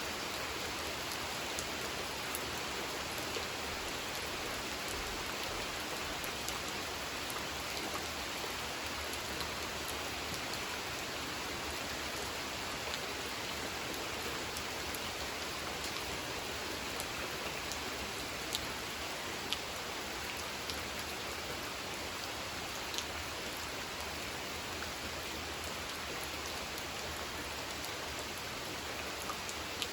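Steady rain falling on a pond, an even hiss with scattered sharper drips and splashes.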